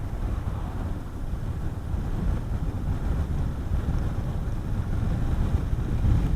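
Wind rushing over the microphone while riding a Honda CB400SS motorcycle at speed, a steady low rumble with the single-cylinder engine running underneath.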